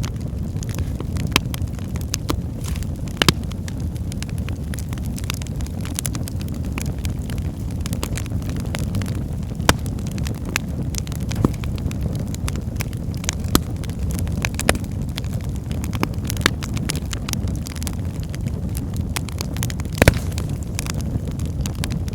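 Wood fire burning in a fireplace: a steady low rumble of flames with irregular sharp crackles and pops from the logs, a few standing out louder, one near the end.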